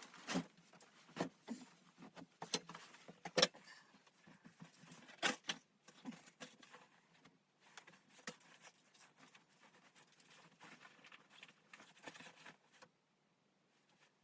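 Irregular clicks, taps and knocks of objects being handled, with faint rustling between them. They stop suddenly near the end.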